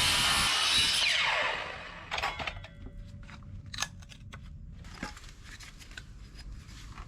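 A handheld power tool running at full speed, then winding down with a falling whine after its trigger is released, followed by a few faint clicks and knocks.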